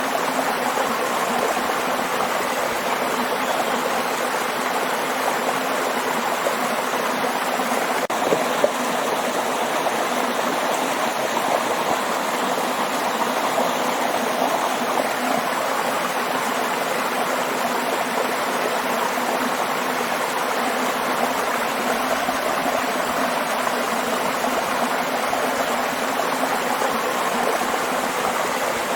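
Waterfall water rushing and splashing in a steady, unbroken rush.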